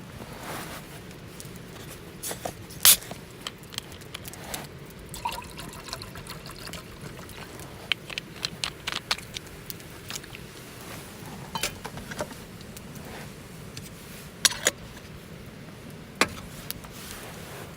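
Wood campfire crackling: scattered sharp pops over a low steady hiss, the loudest about three seconds in.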